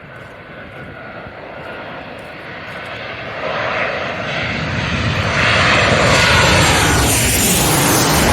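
Airliner on final approach passing low overhead to land: engine noise swells steadily for several seconds to a loud peak, and its pitch falls as the plane goes by near the end.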